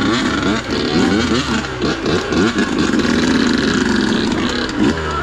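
Dirt bike engine revving up and down over and over, its pitch rising and falling quickly through the gears and throttle, with a steadier stretch near the middle.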